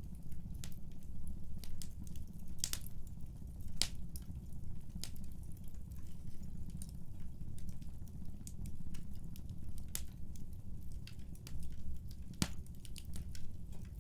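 Wood fire burning in a fireplace: irregular sharp crackles and pops over a steady low rumble, with a few louder pops standing out.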